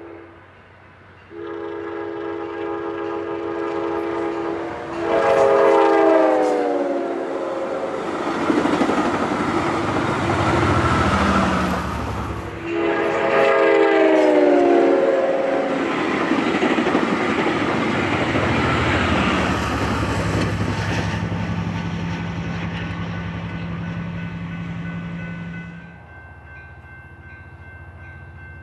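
Passenger train locomotive sounding its multi-note horn in two long blasts, the pitch sliding down during each as it passes. Between and after the blasts comes the rumble and wheel clatter of the train going by, which falls away near the end.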